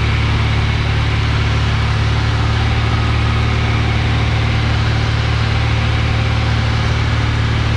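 Cessna 172F's Continental O-300 six-cylinder engine and propeller droning steadily in cruise flight, heard from inside the cabin.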